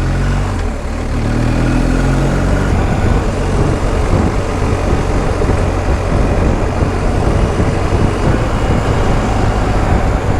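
BMW R1250 GS Adventure's boxer-twin engine pulling, its note rising over the first couple of seconds, then largely buried under steady wind rush on the microphone at riding speed.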